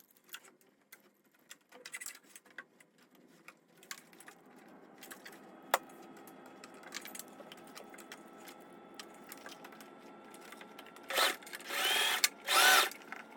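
Heavy-duty sewing machine: scattered small clicks, then a steady faint motor hum from about four seconds in, and near the end several loud short runs of stitching that rise and fall in pitch.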